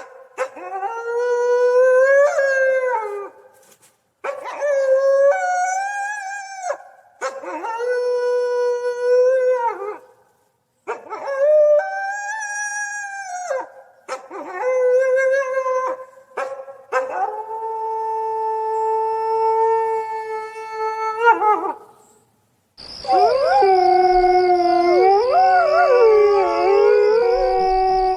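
Coyote howling: a string of long, pitched howls, each a few seconds long with short gaps between. Near the end, several coyotes howl together in overlapping, wavering calls over a steady high-pitched buzz.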